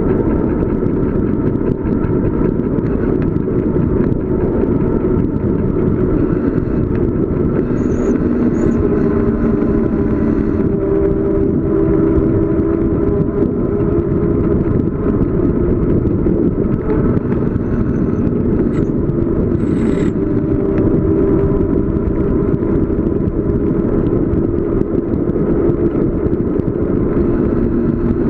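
Steady rush of wind and road noise from a bicycle coasting downhill at speed, with a faint steady hum running through it.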